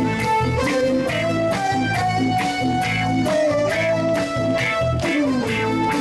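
Live band playing the instrumental break of a cha-cha song: a held, gliding lead melody over bass and a steady cha-cha beat.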